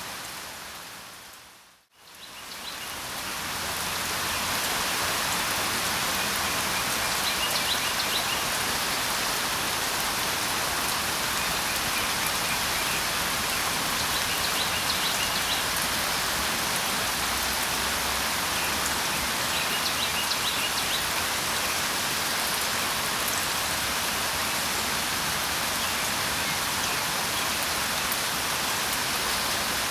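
Steady rain falling, with faint short bird chirps coming through every few seconds. About two seconds in the rain fades out to silence and fades straight back in, a loop point in the recording.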